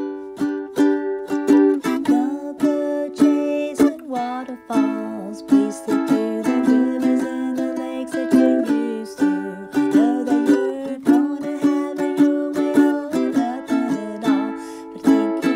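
Outro music: a ukulele strummed in a brisk, even rhythm, with a melody line that slides between notes above it.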